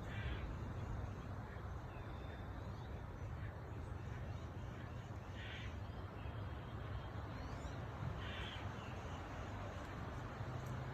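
A crow cawing: three single caws a few seconds apart, over a steady low hum.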